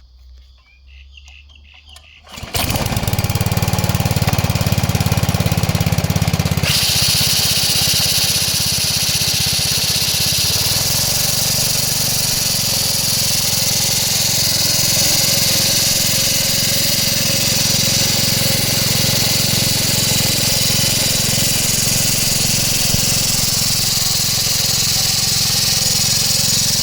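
Scott Bonnar 45 cylinder mower's 150cc Predator engine running steadily. It comes in abruptly about two and a half seconds in after a quiet start, and a high whirring joins about seven seconds in.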